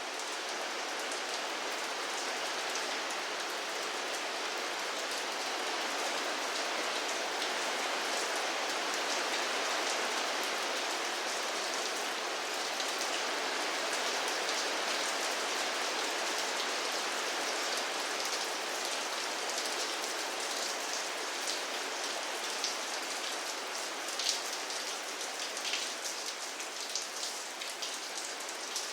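Steady rain falling and pattering on a surface, with individual sharper drop hits standing out more often towards the end.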